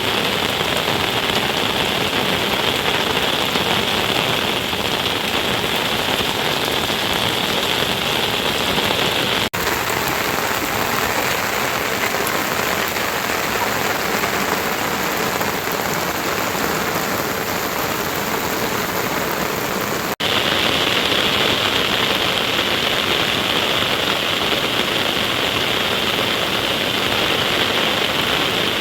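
Heavy rain falling, a steady, even hiss. It breaks off for an instant twice and resumes with a slightly different tone.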